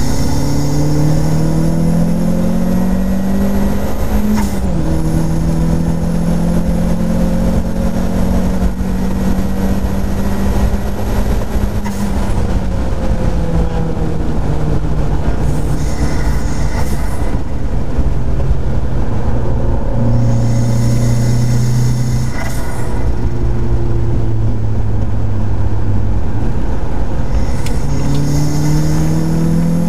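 Turbocharged Mazda MX-5's four-cylinder engine driven hard on a race track. Its pitch climbs under acceleration and drops back several times at gear changes, over a heavy rumble of wind and road noise in the open cockpit, with a thin high whistle above it.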